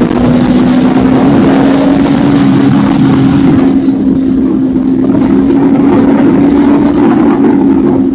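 Motorcycle engine running loud at steady revs, one held note that rises a little and then holds.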